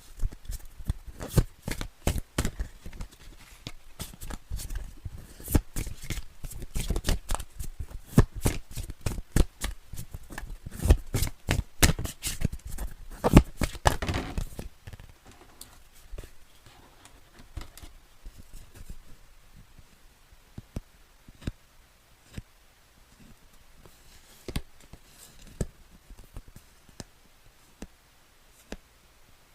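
Moonology oracle cards being shuffled by hand: a dense run of quick card flicks for about the first half, then only scattered soft taps and rustles of card handling.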